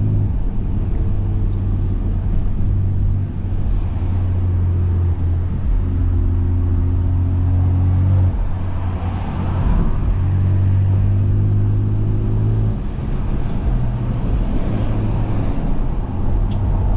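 BMW S55 twin-turbo inline-six with catless downpipes and a valved axle-back exhaust, valves open, running at low, steady revs in slow traffic. It is a deep drone that shifts pitch slightly a few times.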